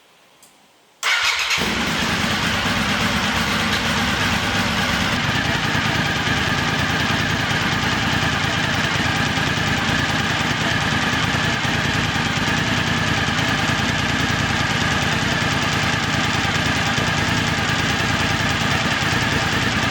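1997 Suzuki TL1000S's 90-degree V-twin engine firing up on a cold start about a second in, then idling steadily.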